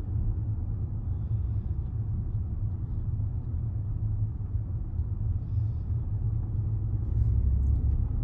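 Steady low rumble of a Range Rover driving, heard inside the cabin: engine and road noise, a little heavier near the end.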